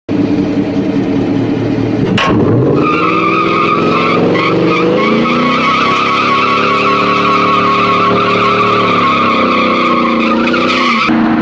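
Car engine held at high revs with its tyres squealing, as in a burnout. The squeal wavers steadily, and the sound breaks off abruptly about two seconds in and again near the end.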